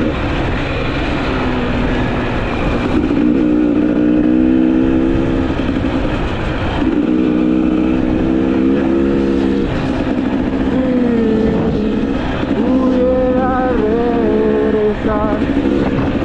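Two-stroke engine of a GasGas EC300 enduro motorcycle running while being ridden, holding steady revs for a few seconds at a time with rises and drops in pitch between them, over a steady low rush of noise.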